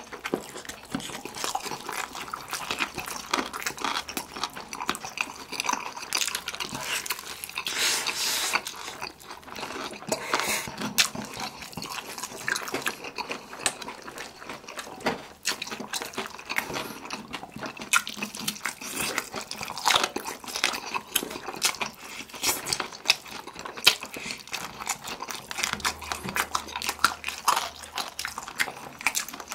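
Close-miked eating sounds: wet chewing and biting of sauce-glazed fried chicken and black-bean instant noodles, a dense run of quick clicks and mouth smacks.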